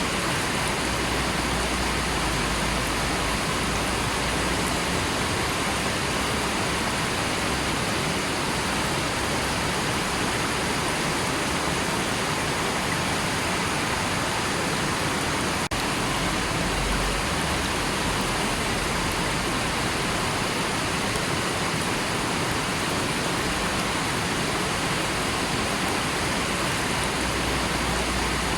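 River water rushing steadily, an unbroken even hiss of flowing water, with a momentary dip a little past halfway.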